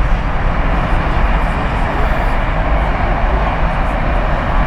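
Boeing 777 freighter's twin GE90 turbofans at take-off thrust during the take-off roll: a loud, steady rush of jet noise over a deep rumble.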